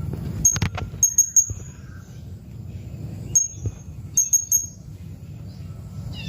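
Blue-crowned hanging parrot (serindit) calling: short, shrill, very high notes, mostly in quick runs of three. A few sharp clicks and a low steady rumble sit underneath.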